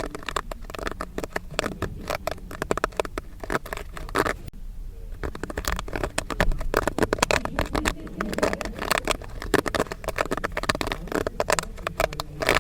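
Popcorn kernels popping in quick, irregular bursts of sharp pops, with a short lull about four and a half seconds in.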